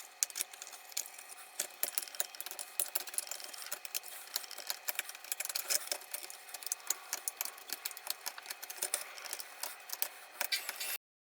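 Rapid, irregular scratching and clicking of hand work on a small part, which cuts off abruptly near the end.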